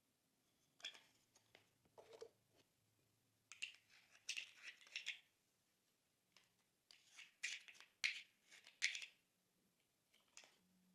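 Thick glossy slime being pressed and folded by hand: quiet spells of sticky crackles and small pops, each lasting a second or two with short pauses between them.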